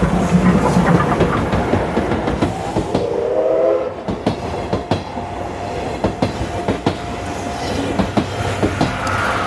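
Chichibu Railway Paleo Express passenger train running past, its wheels clicking over the rail joints. A short pitched tone sounds about three seconds in.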